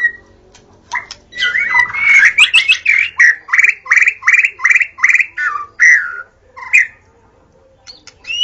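White-rumped shama singing: loud whistled phrases, then a quick run of repeated downward-slurred notes, a short pause and a few more notes before the sound cuts off suddenly.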